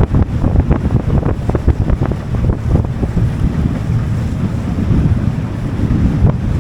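A small boat under way, with wind buffeting the microphone and water rushing along the hull. Frequent short slaps and knocks, busiest in the first few seconds, sound over a loud, steady low rumble.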